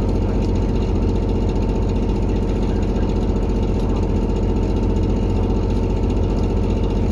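Diesel engine of a JR Kyushu KiHa 183 series 1000 railcar heard from inside the passenger car, running steadily with a loud rattling clatter that the passenger suspects is a fault or a sign of the engine's age.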